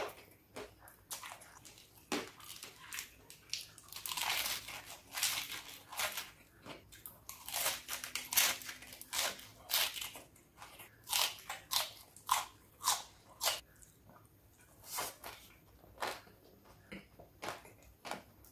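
Close-up chewing and crunching of fried rice topped with crispy anchovy sambal, eaten by hand, in many short irregular crunches. Around the middle, a fresh lettuce leaf is bitten and chewed.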